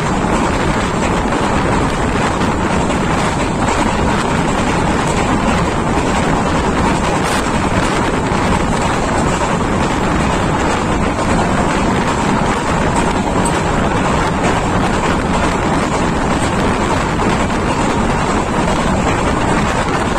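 Steady rush of wind and running noise from a moving train, with wind buffeting the microphone.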